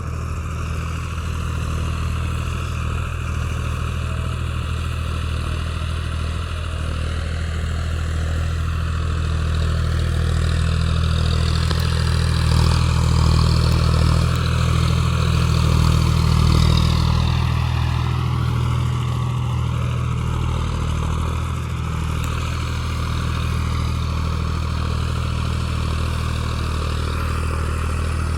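Tractor engine running steadily, louder for a few seconds in the middle.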